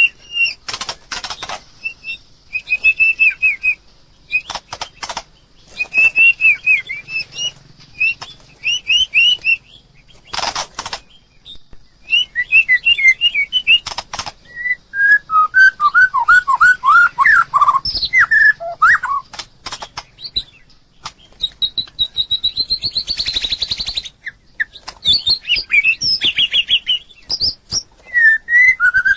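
White-rumped shama singing: varied phrases of quick, sliding whistled notes, some high and some lower and richer, with short gaps between them. Several short, dry rattling sounds break in between the phrases.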